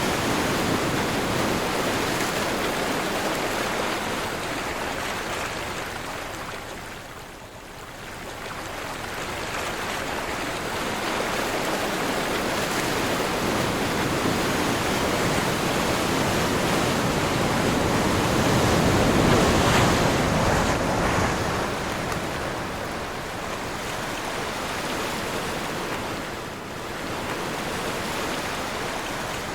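Ocean surf washing in and out with wind. The wash eases to a lull about seven seconds in, then builds to its loudest surge around twenty seconds in before settling again.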